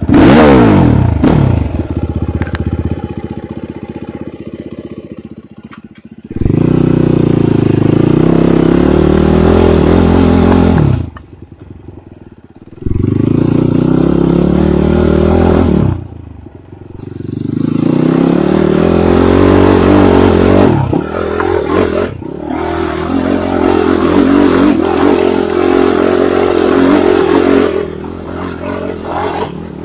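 Enduro motorcycle engine running hard under throttle, revving up in repeated pulls with short drops where the throttle closes, about 11 and 16 seconds in.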